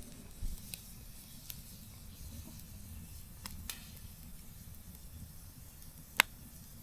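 Campfire burning with a low rumble and scattered sharp crackles and pops, the loudest a single pop about six seconds in.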